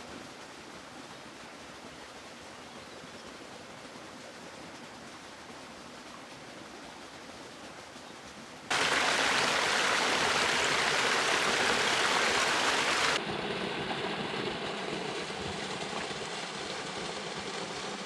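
River water flowing and rushing, a steady noise that jumps abruptly much louder about nine seconds in and drops back partway about four seconds later.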